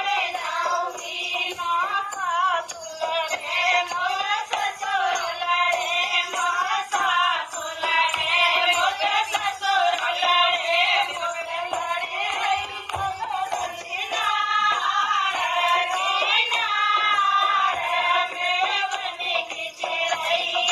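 A woman singing a Hindi dehati folk song over music, her voice bending up and down in long ornamented lines with only short breaks.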